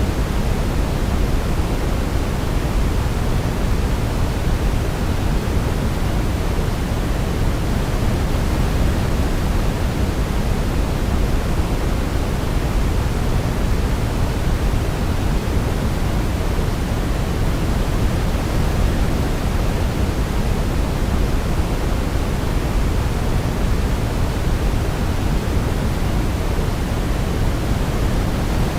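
Steady synthetic noise, an even, unbroken hiss that is fuller in the low end, like pink noise; no melody can be picked out.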